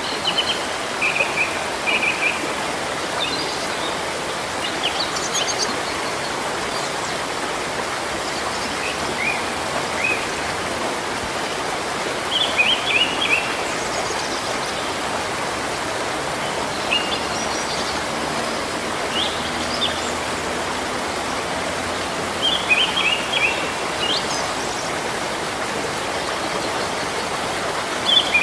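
Steady rain falling, with a bird giving short runs of high chirps every few seconds.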